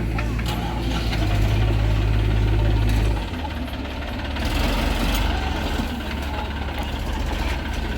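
Heavy diesel engine running steadily at a low pitch, working harder from about a second in and easing off about three seconds in.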